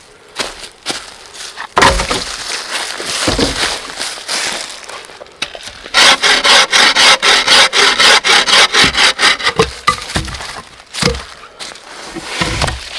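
A hand saw cutting through a piece of wood in quick back-and-forth strokes, about four a second, for several seconds midway. Before it there is irregular rubbing and handling of the wood, and after it a few knocks.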